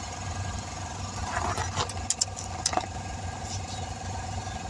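A running engine gives a steady hum, with a short rustle and a few sharp clicks a little before the middle.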